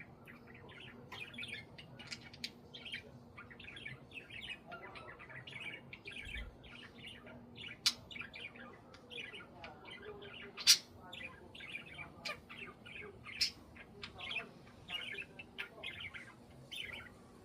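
Budgies chattering: a steady run of short, quick chirps and squawks, with a few sharp clicks mixed in, the loudest a little past the middle.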